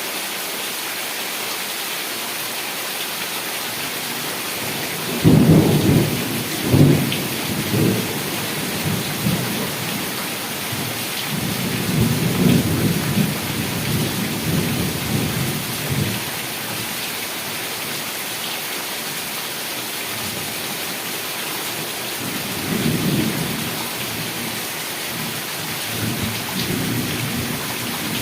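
Heavy rain falling steadily, with thunder rolling through it: a sharp, loud clap and rumble about five seconds in, a longer roll in the middle, and fainter rumbles near the end.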